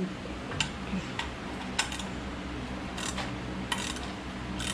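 Light metallic clicks and ticks of parts and tools being handled, about five scattered irregularly over a few seconds, over a steady low hum.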